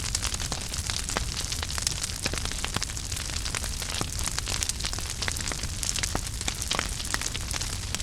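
Wood fire crackling in a fireplace: a steady low rumble and hiss of flame with many quick, irregular pops and snaps.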